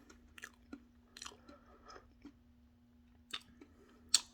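A person chewing with the mouth close to the microphone: scattered wet mouth clicks and lip smacks, the sharpest about four seconds in, over a faint steady hum.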